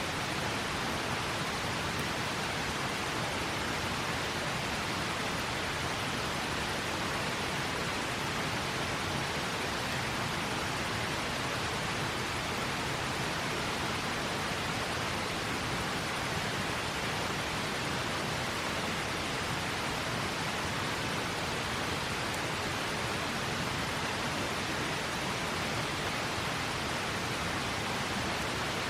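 River water flowing: a steady, even rush with no change in level.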